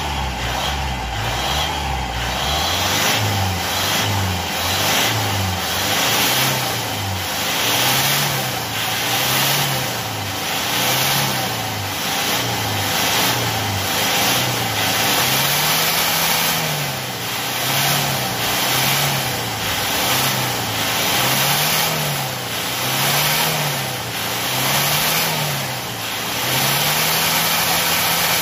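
Car engine free-revving in neutral while parked. It is blipped repeatedly, the pitch rising and falling about once every one to two seconds, and held at a steady higher rev near the end.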